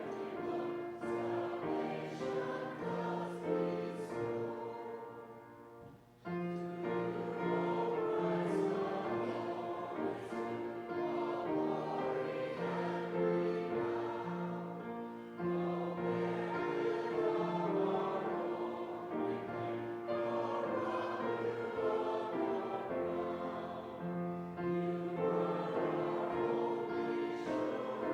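A congregation singing a hymn together in sustained notes, with a short pause about six seconds in before the next line begins.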